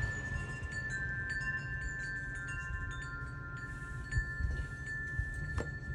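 Wind chimes ringing, several clear tones struck at different moments and ringing on together, over a low rumble.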